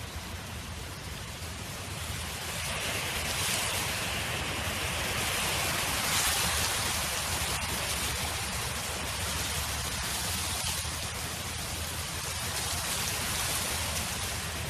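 Wind blowing across a field: a steady rushing hiss that swells in gusts from about two seconds in, loudest around six seconds, over a constant low rumble.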